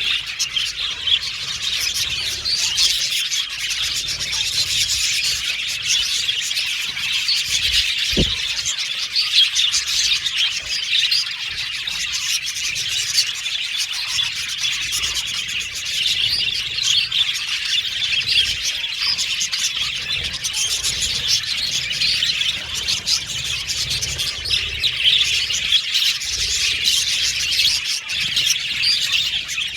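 A flock of budgerigars chattering and warbling, many birds calling over one another in a dense, steady stream of chirps and squeaks. A brief low thump about eight seconds in.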